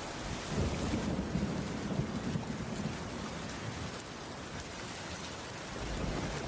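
Steady rain falling on a wooden cabin roof, with a low rumble that swells about half a second in and fades by about three seconds.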